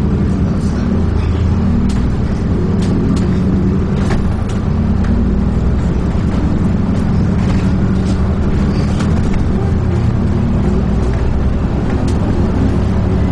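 Dennis Trident 2 double-decker bus on the move, heard from inside: a steady low engine drone, with occasional sharp clicks and rattles from the body.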